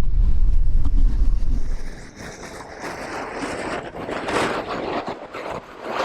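Wind buffeting the microphone with a loud low rumble that drops away about two seconds in, leaving a quieter, even rushing noise.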